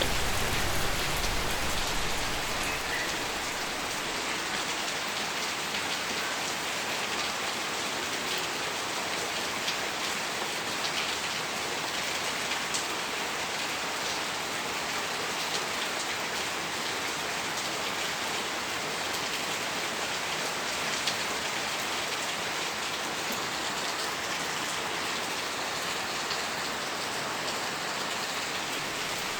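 Steady rain falling, a continuous even hiss with scattered drop ticks on a surface; slightly heavier with a low rumble in the first few seconds.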